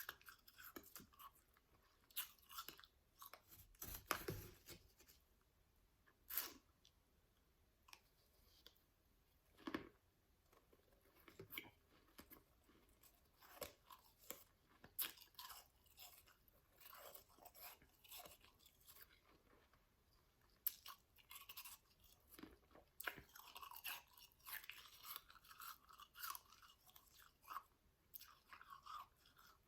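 Powdery ice being chewed close to the microphone: soft, irregular crunches with short pauses between bites, a few sharper and louder than the rest.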